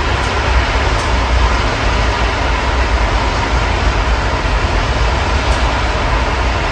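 Steady rain heard through an open window, with a low rumble of city traffic underneath and a few faint drip ticks close by.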